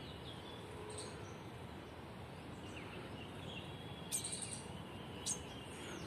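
Quiet garden ambience: a faint steady background hiss with a few short, high bird chirps, including a quick run of them about four seconds in.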